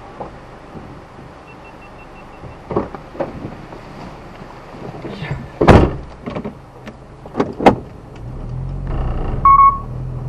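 A series of knocks and thuds, the loudest a little before the middle, like a car door being shut. About eight seconds in, a car engine starts and runs steadily, with a short electronic beep.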